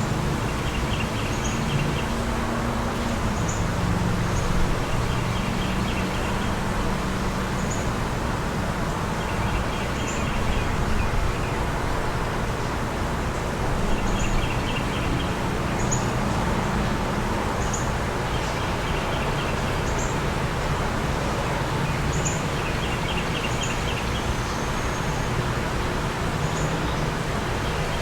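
Steady wind noise outdoors with birds calling through it: short high chirps every second or two and a rapid trill repeated about every three to four seconds, over a low hum of distant traffic.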